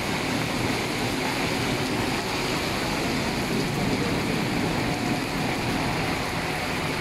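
Heavy rain pouring steadily onto a paved street, an even hiss with no breaks.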